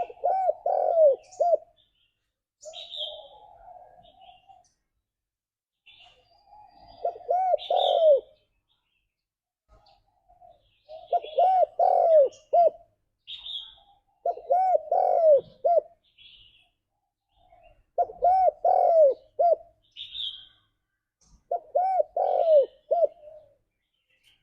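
Spotted dove cooing. Its call comes as repeated phrases of a few quick coos, one phrase every three to four seconds, with short high chirps between the phrases.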